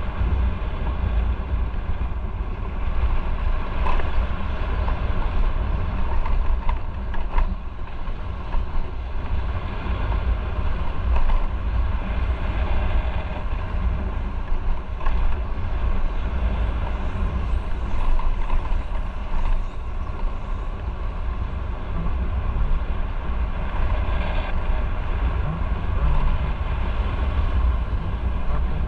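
Motorcycle riding on the road: steady engine and road noise under heavy wind rumble on the microphone.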